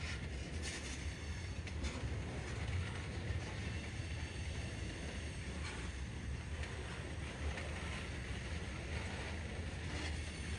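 Freight train rolling past: a steady low rumble of wheels on rail with a few faint clicks.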